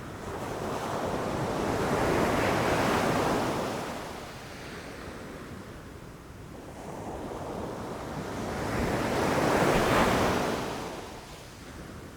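Ocean waves rushing in and breaking on the shore, two swells of surf a few seconds apart that each build, crash and wash back, with a low rumble underneath and some wind on the microphone.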